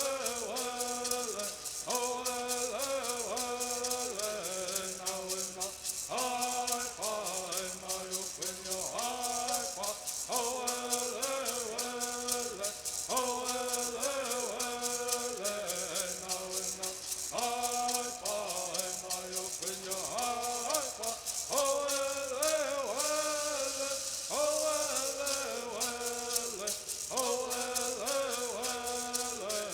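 Southern California Native American bird song: singers chant a repeating melodic phrase, one every few seconds, over the fast, continuous shaking of gourd rattles.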